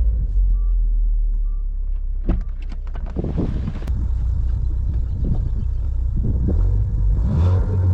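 Ford Focus ST's turbocharged four-cylinder engine running at low, steady revs with a deep exhaust rumble, heard from the cabin with the windows down. A quick run of sharp clicks sounds about two to three seconds in.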